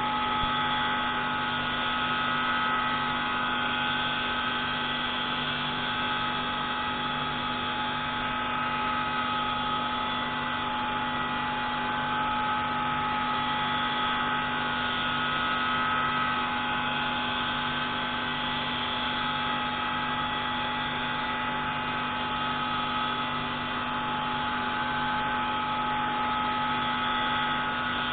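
Pneumatic valve-grinding tool running steadily on the intake valve of a MAK 601C marine diesel engine, a constant whine with several fixed tones over a hiss of air and grinding.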